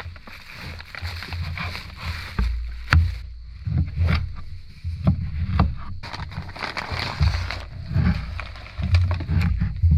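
Knives chopping and mashing raw brisket on a cutting board, hand-mincing it like ground meat: irregular knocks mixed with low thuds.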